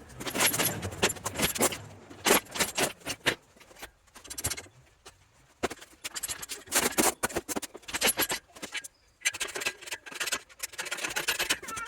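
Irregular clattering and scraping, like metal parts and tools being handled and moved about. It comes in clusters of knocks and scrapes, with short quiet gaps about four and nine seconds in.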